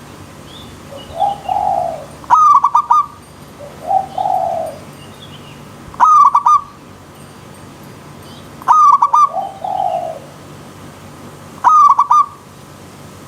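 Zebra doves (perkutut) cooing. Four loud bursts of quick staccato notes come about every three seconds, with softer, lower coos in between.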